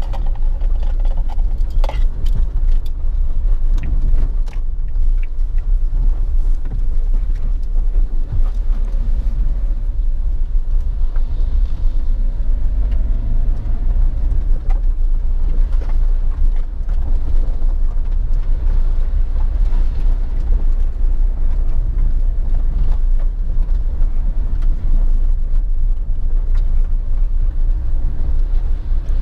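Suzuki Jimny's 1.5-litre four-cylinder engine running under way, a steady low rumble of engine and drivetrain. A few sharp knocks and rattles come in the first few seconds, and a faint engine note rises slightly around the middle.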